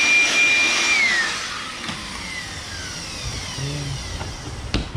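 Electric vacuum motor running with a steady whine, switched off about a second in and winding down in pitch. Two sharp knocks near the end.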